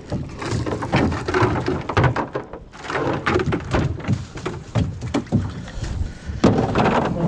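Irregular knocks, thumps and scraping against the hull of a canoe while freshly caught mullet are handled in the boat, with a louder rustling clatter about six and a half seconds in.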